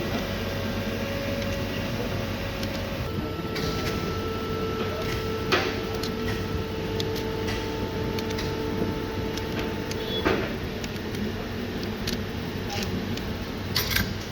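Steady mechanical hum with a few steady tones that shift in pitch, broken by three sharp clicks or knocks.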